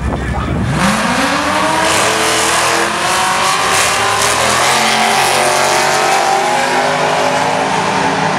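Two Ford Mustangs launching in a drag race, engines revving up sharply a little under a second in as they leave the line. They then run hard at high revs as they accelerate away down the quarter mile.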